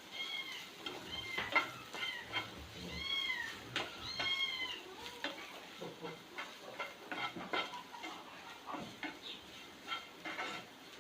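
A spatula stirring and scraping onion-and-spice masala sautéing in a pan, with light sizzling. A cat meows several times in the first half, each call rising then falling in pitch.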